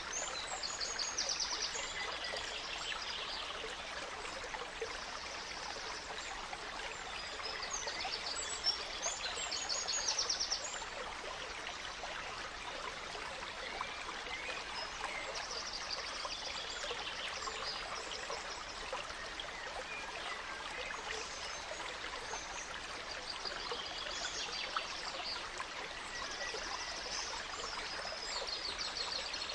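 Gentle stream flowing steadily, with small songbirds singing short, rapid trilled phrases every few seconds.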